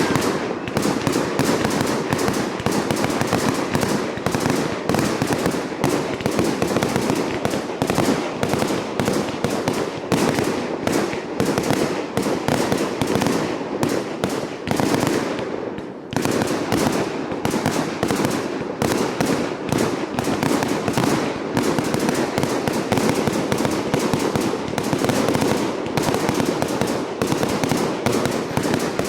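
Professional fireworks display: a dense, rapid barrage of bangs and crackling, many reports a second, with a brief lull about sixteen seconds in before it picks up again.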